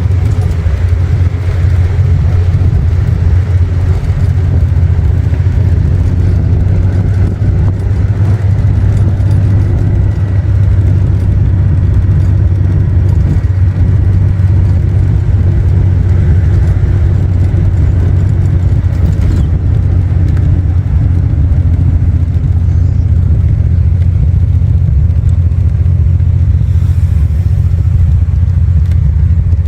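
Custom 1974 Triumph TR6's engine running steadily as the car cruises, a loud, even low drone with no big changes in revs.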